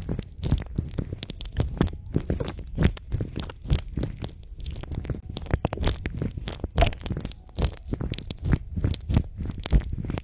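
Close-miked ASMR trigger sounds: a dense, irregular run of sharp clicks and crackles, several a second, with a muffled low rumble beneath them.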